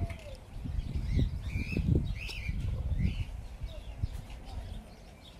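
A few faint, short chirps of small birds, rising and falling, over a low irregular rumble; the peacock gives no call.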